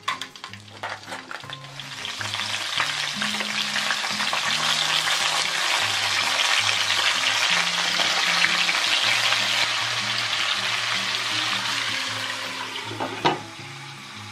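Crabs and shrimp sizzling loudly in a hot stainless-steel wok while being stirred with a wooden spatula. Metal tongs click against the wok at the start, and a single sharp clank comes about 13 seconds in as a glass lid goes on, after which the sizzle is muffled.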